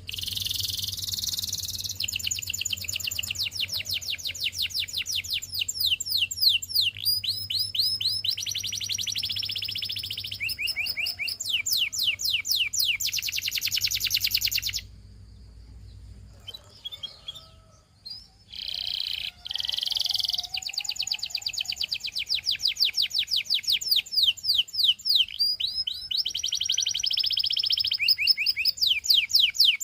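Domestic canary singing a long song of fast trills and rolling phrases of rapidly repeated high notes. It breaks off for about three seconds partway through, then resumes with more trills.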